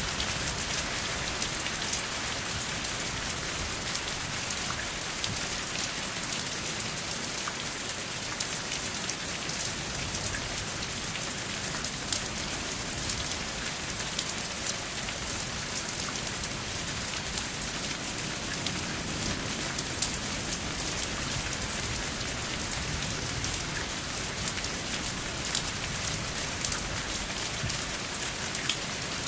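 Steady rain: an even hiss with many separate drops ticking sharply through it, and no thunder.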